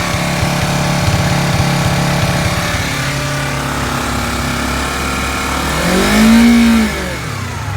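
2019 Honda CBR250RR's parallel-twin engine with its original exhaust, running steadily at about 4000 rpm in Sport Plus riding mode. About six seconds in, it is revved once: the pitch climbs and falls back within about a second, the loudest moment, and then the engine settles to a lower steady running.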